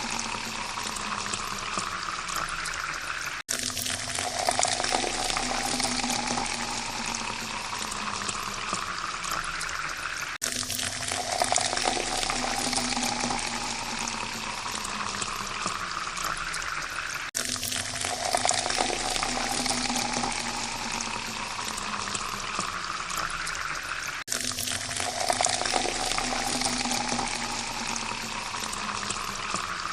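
Water pouring steadily into a glass, its pitch rising as the glass fills. The pour repeats about every seven seconds, each one starting after a brief break, four times in all.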